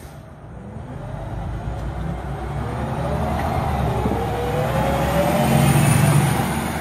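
Scania bus pulling away and accelerating, its engine and drivetrain growing louder, with a whine that rises in pitch through the middle and eases off near the end.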